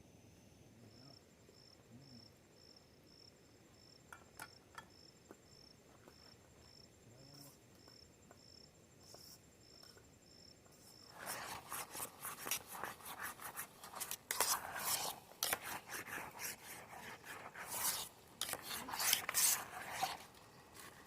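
An insect chirping about twice a second, then, from about eleven seconds in, a long run of loud, rapid scraping and rubbing strokes.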